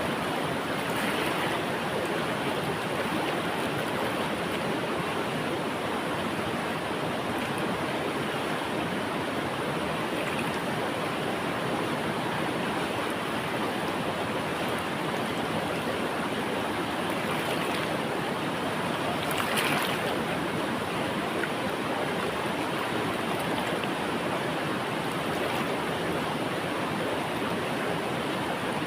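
River water flowing steadily, an even rushing with one slightly louder splash about two-thirds of the way through.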